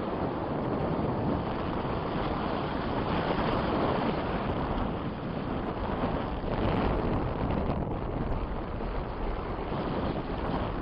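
Strong wind buffeting the microphone: a steady rushing noise that swells and eases a little.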